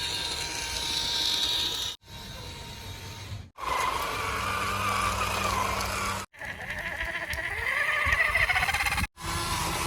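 Motor whirring in a series of short clips separated by abrupt cuts to silence; in one clip a steady low hum, in a later one a whine that rises in pitch.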